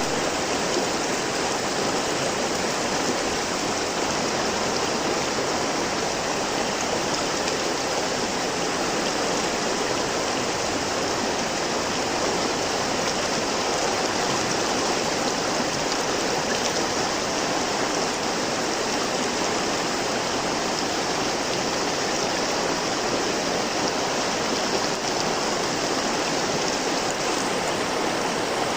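River water flowing: a steady, unbroken rush of water.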